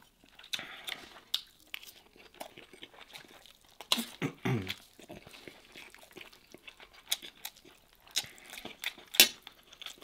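Close-miked eating sounds of a man chewing lamb and rice from a kabsa, with soft wet mouth noises and scattered sharp clicks. About four seconds in there is a short hum from him that falls in pitch.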